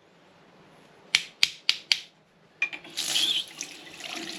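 Four quick, sharp knocks, a quarter second apart, on the plumbing being worked on, then, about two and a half seconds in, water rushing out of the line, loudest at first and then running on.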